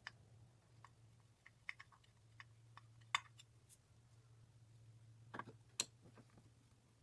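Faint, scattered light clicks and taps of small hard objects being handled, over a low steady hum. The loudest clicks come about three seconds in and twice around five and a half to six seconds in.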